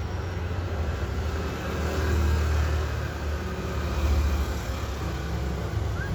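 Low, steady rumble of road traffic, swelling twice as vehicles pass.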